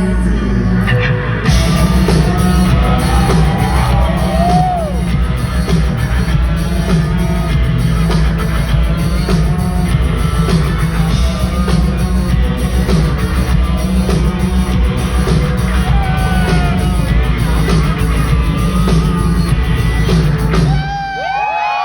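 Live band playing loudly with a heavy bass line, with voices yelling and whooping over the music. Near the end the band stops and the whooping carries on.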